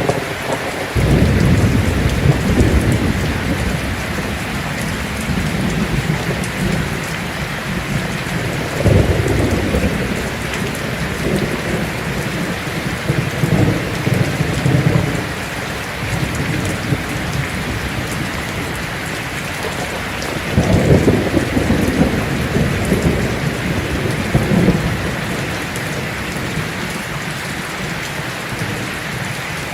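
Heavy rain drumming on a tin roof, a steady hiss, with thunder rolling several times underneath: low rumbles swell about a second in, near nine seconds, around fourteen, and again around twenty-one and twenty-four seconds.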